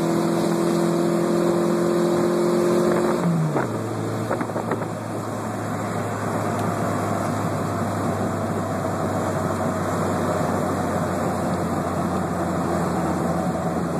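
Exhaust of a VW Golf MK2's four-cylinder engine with the rear muffler cut out, running loud and raspy. It holds a steady higher note, then drops about three seconds in to a lower, steady drone.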